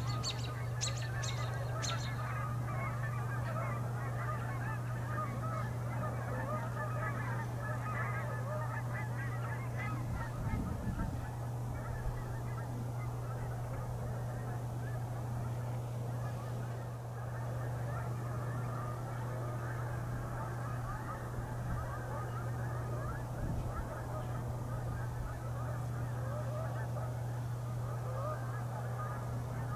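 A flock of Canada geese and trumpeter swans honking without pause, many calls overlapping, over a steady low hum.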